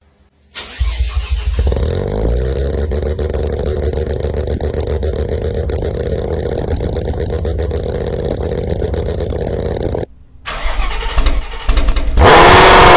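Car engine cold start: it fires up, catches and runs steadily. It cuts off suddenly about ten seconds in, and near the end a second, much louder engine comes in, its pitch rising and falling.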